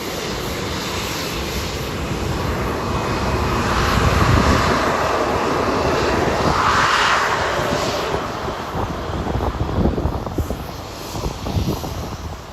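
Jet engines of a Boeing 737-700 (CFM56-7B turbofans) running at taxi power as the airliner goes by. The sound swells to its loudest in the middle and then fades away.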